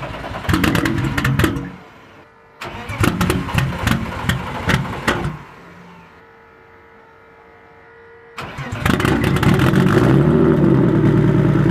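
Car engine being cranked by the starter twice without catching, then on a third try, about eight and a half seconds in, it fires and settles into a steady idle.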